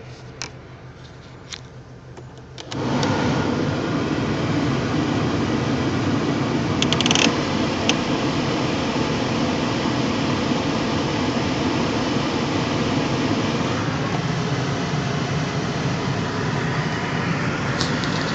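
1999 Ford Mustang's 3.8-litre V6 idling, with a few light clicks; about three seconds in, a much louder steady rushing mechanical noise cuts in suddenly and runs on, with a couple of sharp clicks about seven seconds in. This is the idle the owner says shakes and misfires when the AC is on or the power steering is loaded.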